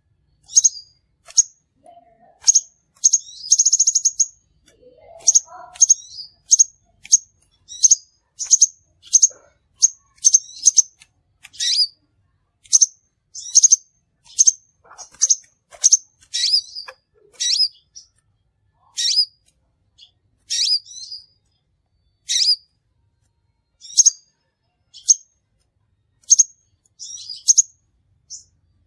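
Crimson sunbird calling: short, sharp, high-pitched chirps repeated about once a second, with a brief buzzy trill about four seconds in.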